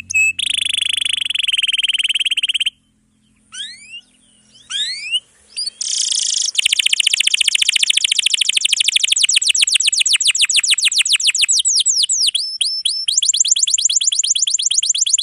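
Domestic canary singing a dense song of long, rapid trills (rolls). There is a short break about three seconds in, then a few rising notes, then a long fast trill from about six seconds in.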